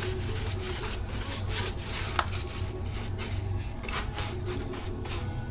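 Wood being scraped by hand in repeated rubbing strokes, about two to three a second, as in sanding or rasping pallet wood. A steady low hum lies underneath.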